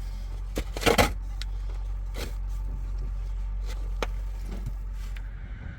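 Tractor engine running with a steady low drone, with scattered knocks and clanks over it, the loudest about a second in.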